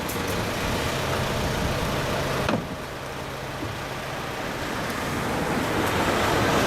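An engine running steadily, with one sharp knock about two and a half seconds in; the sound grows louder towards the end.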